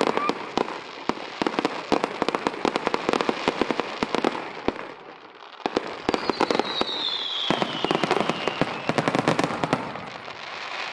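Rapid-fire fireworks barrage: a dense run of quick bangs and crackles, a brief lull about five seconds in, then a second volley with a falling whistle, thinning out near the end.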